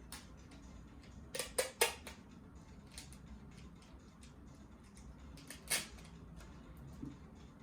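Handling noise from taping paper parts onto a plastic bottle: a quick run of three sharp crackles about a second and a half in, another about six seconds in, and a few faint ticks between.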